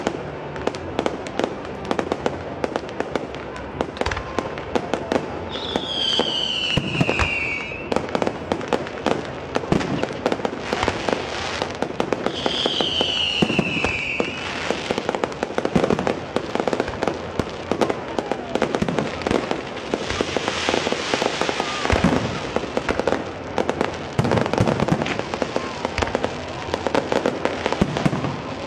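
Fireworks display going off: a dense run of bangs and crackling bursts, with two whistles that fall in pitch, one about a quarter of the way in and one near the middle.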